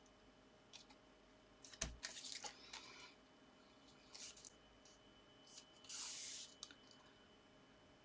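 Faint handling of card and paper on a work surface: a single sharp tap or knock about two seconds in, followed by short rustles, and a brief rubbing scrape near six seconds.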